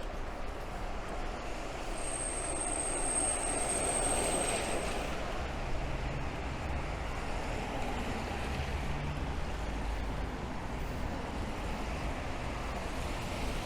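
Rain and traffic on a wet city street, with a vehicle passing that swells in loudness a few seconds in. A high, thin, steady squeal lasts about three seconds, starting about two seconds in.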